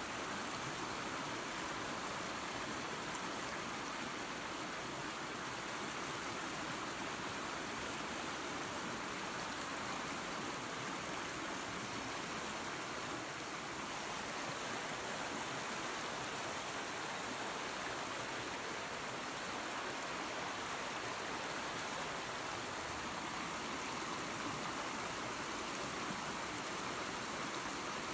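Creek water and a small waterfall rushing steadily, an even splashing hiss with no change or break.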